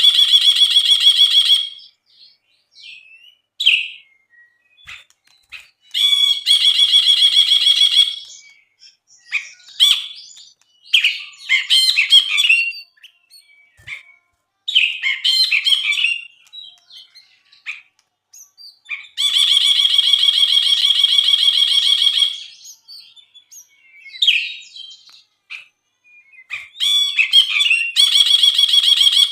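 Brinji (bulbul) singing: a long, even, buzzy rattling trill of about two seconds, given four times, alternating with shorter chattering phrases.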